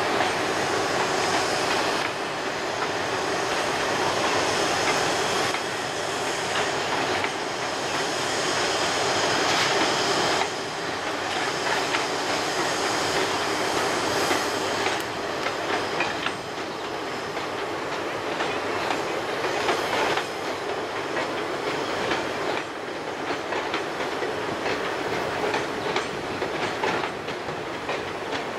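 Long Indian Railways passenger express train climbing a steep gradient: a continuous rumble of coaches rolling past, with wheels clicking over rail joints, the clicks more frequent in the second half.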